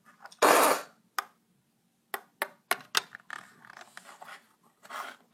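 Plastic toy pieces being handled: a loud rustling burst about half a second in, then a string of sharp clicks and light scraping.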